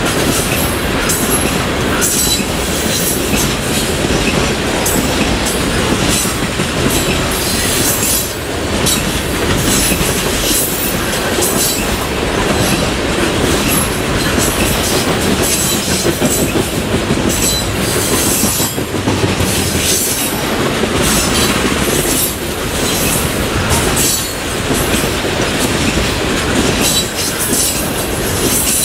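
Freight train passing close by: a long string of cars rolling past with steady wheel-on-rail noise, clicking over rail joints and repeated high-pitched wheel squeal.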